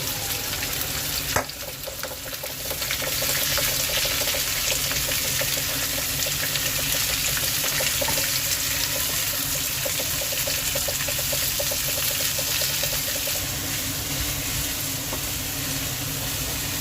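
Onions frying in hot oil with whole spices: a steady crackling sizzle that grows louder about three seconds in, with a single click just over a second in.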